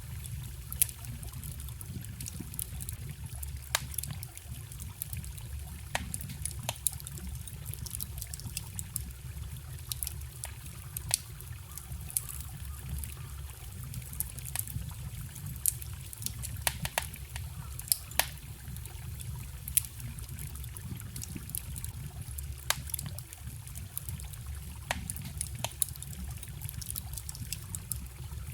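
Wood fire crackling with irregular sharp pops, over the steady low rush of running water from a small stream.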